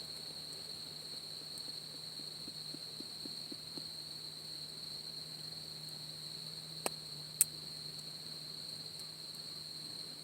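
Insects trilling steadily on one high note, with two sharp pops about seven seconds in, half a second apart.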